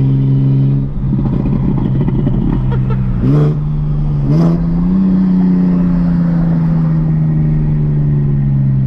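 800 hp big-turbo BMW 335i engine running under way. A rough, rattly stretch comes about a second in, then the revs sweep up sharply twice, each with a short hiss, and settle into a steady drone.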